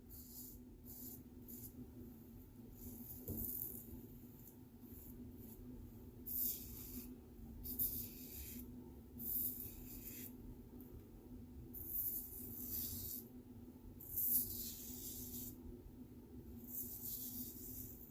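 Razorock Gamechanger .84 safety razor strokes scraping through lathered stubble: a short scratchy rasp every one to three seconds, over a faint steady hum.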